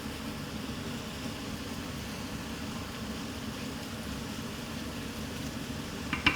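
Kitchen extractor hood fan running steadily over a pan cooking on the stove, a steady hum and hiss. A couple of sharp clinks just before the end.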